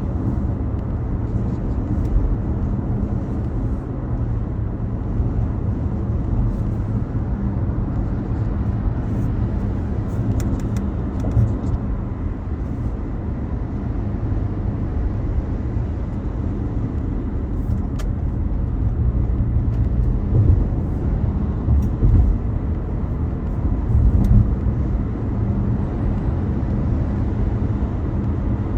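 A car driving along: a steady low rumble of engine and tyres on the road, with a few faint level tones in the hum and an occasional faint click.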